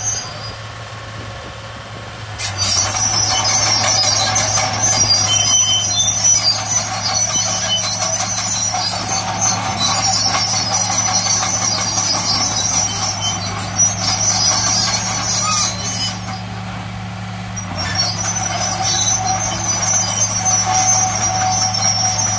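Diesel engine of heavy earthmoving machinery running steadily with a low hum under a dense, high-pitched mechanical rattle. It eases off and drops quieter twice: just after the start, and again about three-quarters of the way through.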